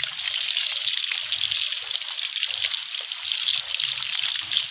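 Water trickling steadily, an even hiss with fine crackles.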